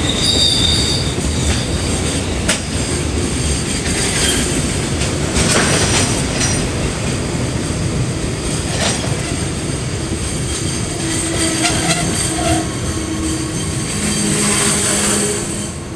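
Container wagons of a freight train rolling slowly past: a steady rumble of wheels on rail, with clacks over rail joints and short squeals from the wheels. The sound fades as the last wagon goes by near the end.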